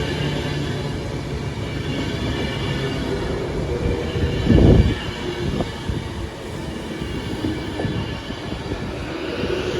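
A train running past on the track: a steady rumble with thin high ringing tones from the wheels and rails over it. A brief, loud low thump comes about halfway through.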